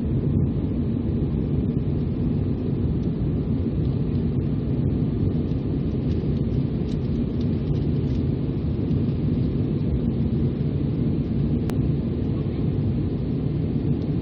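Steady low roar of an Embraer 195's GE CF34-10E turbofan engines and the airflow around the airframe, heard from inside the passenger cabin.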